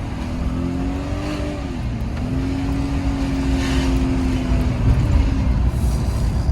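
2000 Chevrolet Silverado's 5.3-litre V8 accelerating hard, engine pitch rising, dipping briefly about two seconds in, then climbing slowly and holding at high revs before easing off near the end.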